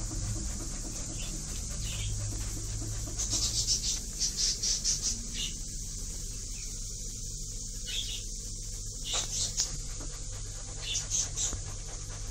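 A bird chirping in several runs of quick, high, short notes over a steady low hum.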